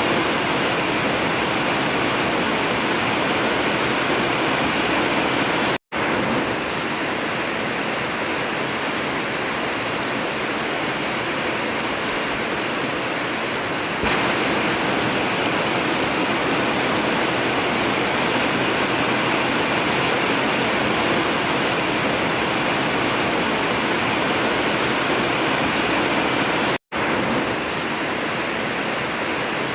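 Heavy rain falling steadily on a tin roof, an even hiss. It cuts out for an instant twice, about 6 seconds and 27 seconds in.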